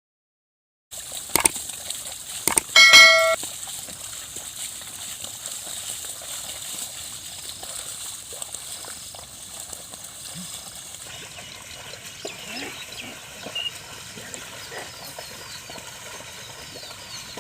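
A bell rings once, briefly, about three seconds in, just after two short knocks. It is followed by a steady outdoor background with faint high chirps in the later part.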